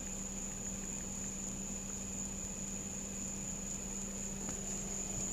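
Steady low hum with a continuous high-pitched whine over an even background hiss; nothing else stands out.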